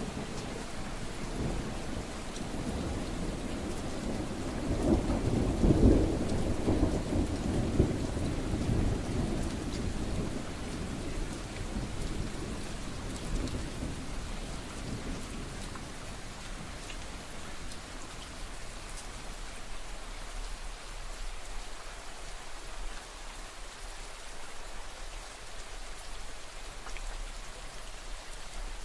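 Steady rain falling, with a long roll of thunder that swells about five seconds in, peaks, and dies away by the middle.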